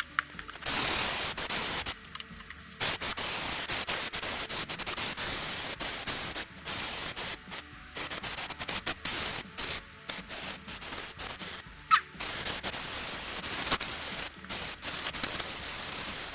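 Hissing pressurised jet, blown in long bursts that are cut on and off repeatedly while grime is cleaned off an old chainsaw. There is a sharp click about twelve seconds in.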